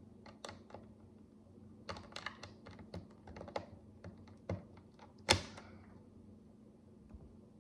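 Micro building bricks, miniature plastic blocks, clicking and tapping as they are handled and pressed together: irregular small clicks, a quick run of them a couple of seconds in, and one sharper, louder click about five seconds in.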